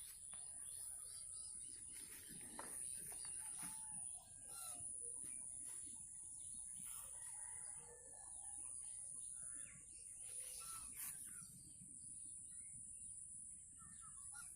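Birds chirping and calling at a rural pond, with chickens among them, under a steady high-pitched whine.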